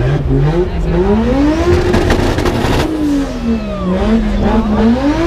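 Supercharged car engine being free-revved. The note climbs, holds for about a second, falls back, then climbs again near the end.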